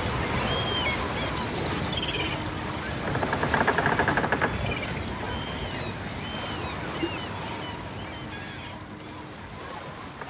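Birds calling again and again with short chirps over a steady rushing wash. A rapid rattling call about three to four seconds in is the loudest sound, and the whole fades slowly near the end.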